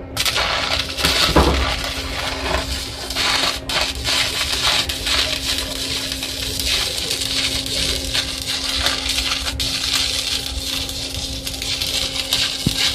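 Electric welding arc struck and held, giving a continuous dense crackle and sizzle with a steady hum underneath.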